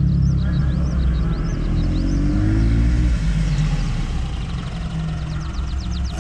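Car engine running steadily at low to moderate revs, with a brief change in pitch a couple of seconds in. Faint high chirps sound over it early on, and a fast run of high ticks comes near the end.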